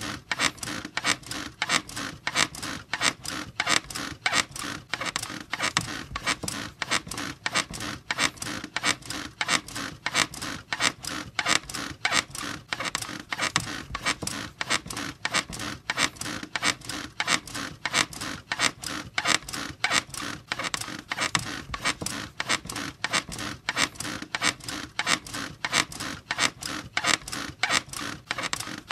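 Bed squeaking in a fast, even rhythm, several squeaks a second, going on without a break.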